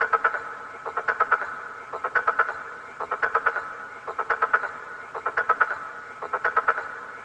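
An animal's pulsed call: a quick train of rapid clicks or croaks about half a second long, repeated steadily about once a second, seven times.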